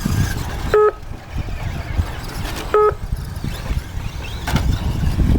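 Two short electronic beeps about two seconds apart, typical of an RC race's lap-counting system registering cars crossing the timing loop, over a steady low rumble.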